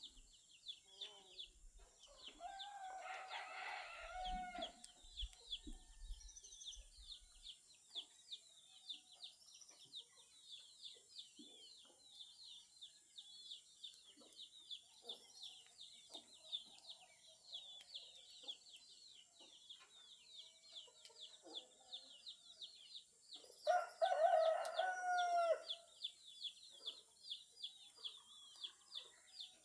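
A rooster crowing twice, once about three seconds in and again near the end, each crow about two seconds long. Under it runs a constant fast, high-pitched chirping and a steady high hiss.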